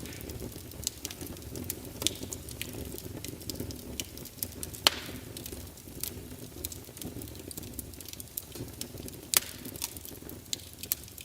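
Wood fire crackling: a steady low rumble of flames under frequent sharp pops and snaps, with two louder pops about five and nine seconds in.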